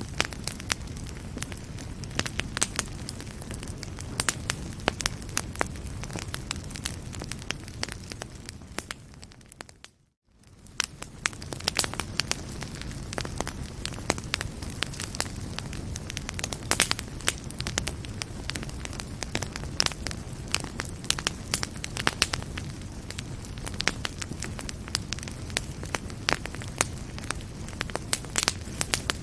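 Fireplace fire crackling, with frequent sharp pops over a steady low rumble of flames. About ten seconds in, the sound fades out to silence for a moment and then fades back in.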